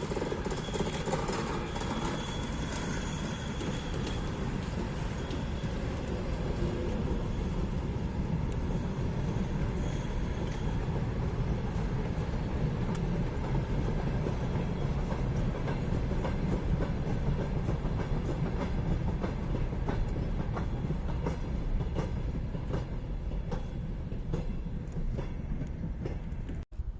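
A train rolling along the tracks: a steady low rumble with repeated clicks of wheels over rail joints, the clicks coming thicker in the second half. The sound cuts off suddenly near the end.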